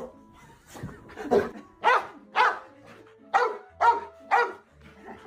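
A dog barking: two quick sets of three sharp barks, about half a second apart.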